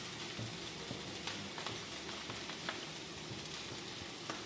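Hot butter and oil sizzling steadily as dry bulgur is stirred into it with a wooden spatula, with a few light taps of the spatula against the pot.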